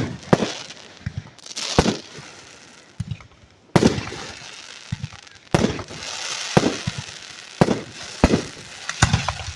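Aerial firework shells bursting close overhead: about ten sharp bangs at uneven gaps of roughly half a second to a second and a half, with a crackling fizz after several of them.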